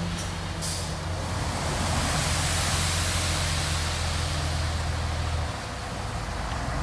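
Diesel engine of heavy earthmoving machinery running steadily under a broad hiss. The low engine note drops away about five and a half seconds in.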